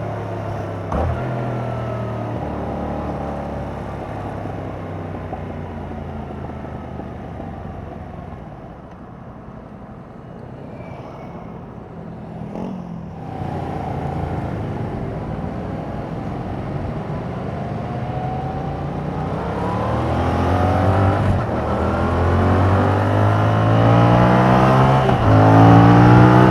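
Yamaha MT-07's parallel-twin engine through its stock exhaust as the bike rides. The revs fall away over the first several seconds and it is quietest a little before halfway. Then it pulls up through the gears with repeated rising revs, loudest near the end.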